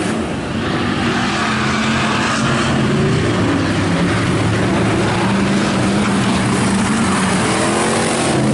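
Several IMCA Hobby Stock race cars running at speed on a dirt oval, their engines sounding together, with pitches rising and falling as cars pass.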